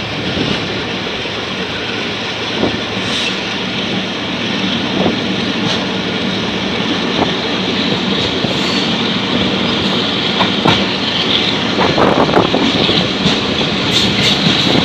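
Pakistan Railways passenger coaches running along the track, heard from an open window: a steady rush of wheels on rail and moving air, with scattered clicks from the rail joints that come more often in the second half.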